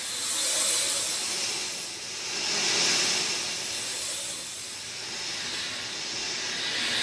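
Rain falling steadily: an even hiss that swells and eases a few times.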